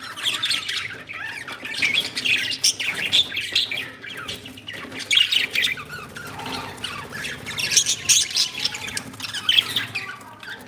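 Pet budgies and cockatiels chirping and squawking, a continuous overlapping chatter of calls with louder squawks now and then.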